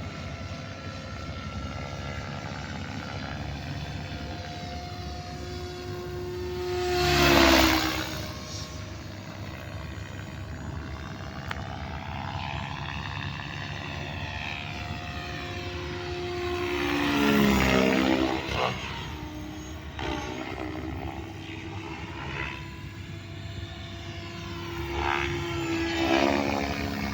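Electric RC helicopter (SAB Goblin 570) flying 3D aerobatics: a steady whine from the motor and rotor blades, whose pitch keeps sliding up and down as the helicopter manoeuvres. It swells loud three times as it passes close, about seven, seventeen and twenty-six seconds in.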